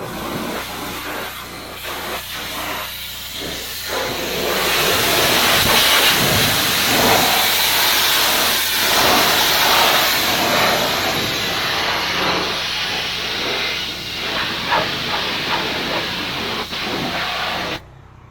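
High-pressure water jet from a gas-engine pressure washer spraying steadily, with the washer's engine running underneath. The spray starts suddenly and cuts off shortly before the end, as the trigger is released.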